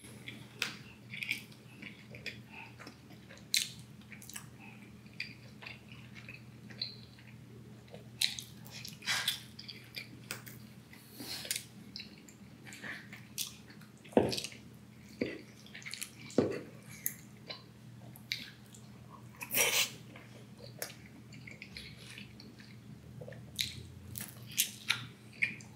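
Close-up chewing of pepperoni pan pizza, with wet mouth smacks and clicks at irregular intervals. A faint steady hum sits underneath.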